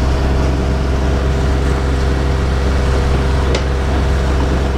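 Catamaran's engine running steadily under way, a constant low drone mixed with wind and water rush.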